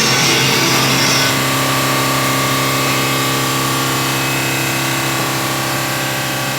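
Power sander running steadily at one constant pitch, sanding car paint down with 80-grit.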